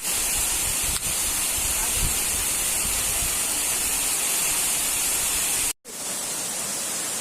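Steady rush of a waterfall, a constant hiss of falling water strongest in the high end. About six seconds in it cuts out abruptly for a moment, then resumes.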